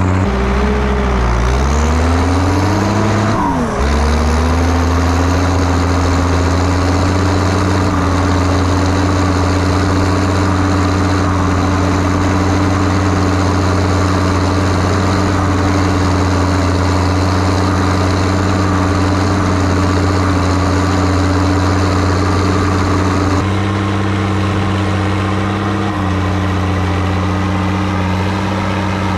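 Zetor ZTS 16145 tractor's turbo diesel engine working under load, pulling a deep-set cultivator. Its revs sag and recover twice in the first few seconds, then it runs steadily, dropping slightly in pitch and loudness near the end.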